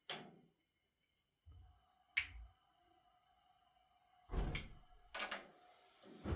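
A few sharp knocks and clatters, spaced irregularly with a pair close together about five seconds in, and a faint steady whine between them.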